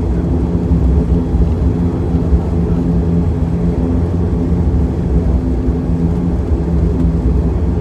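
Steady drone of an ATR 72's turboprop engines and propellers heard from inside the cabin, a constant low rumble with a steady low hum over it.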